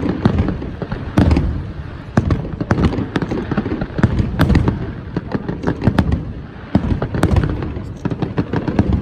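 Fireworks display: a rapid, irregular barrage of booming aerial shells and sharp crackling bursts, with low rumble and echo between the bangs.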